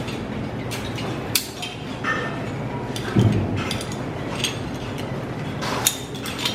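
Sharp metallic clicks and clinks at irregular intervals, with a heavier knock about three seconds in: metal zip-line gear such as carabiners and trolleys being handled.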